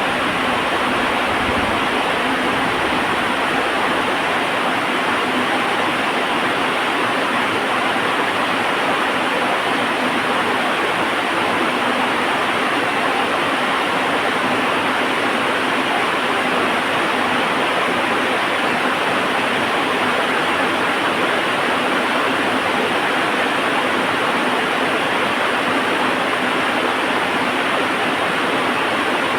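Heavy rain falling as a steady, dense hiss. In the first few seconds the last of a low thunder rumble dies away.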